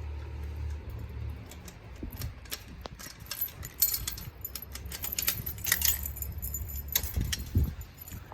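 Rapid metallic jingling and clinking, thickest in the middle few seconds, over a low rumble of strong wind buffeting the microphone.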